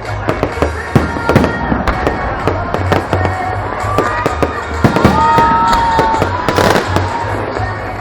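Fireworks display going off: a dense run of sharp bangs and crackling pops, with a couple of gliding whistles near the middle. Music with a pulsing bass beat plays underneath.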